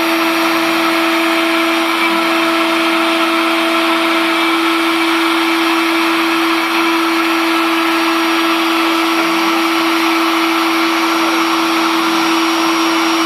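Router spindle of a homemade CNC machine running steadily while it cuts MDF: a loud, even motor whine over a hiss, with no pauses.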